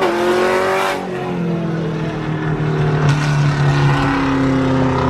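A car engine under hard acceleration. Its pitch drops sharply at a gear change at the start, then the engine note slowly falls as the car pulls away.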